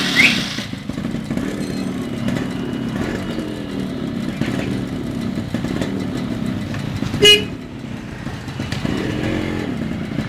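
Yamaha RX100's two-stroke single-cylinder engine running at idle, just started by remote start. A short beep cuts in about seven seconds in, and the engine note rises briefly near the end.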